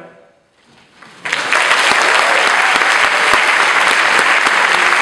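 A male a cappella group's final chord dies away, and after about a second of quiet an audience breaks into loud, steady applause.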